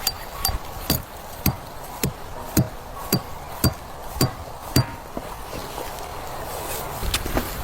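A tool striking something hard in a steady rhythm, about two sharp ringing blows a second, that stop about five seconds in; softer rustling follows near the end.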